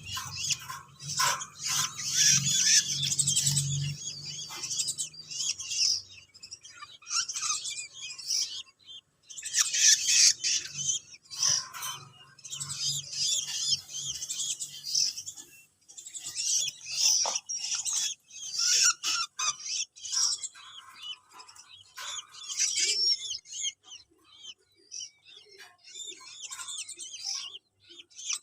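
Hand-fed young songbirds chirping in clusters of short, high, hissy calls that come and go in bursts.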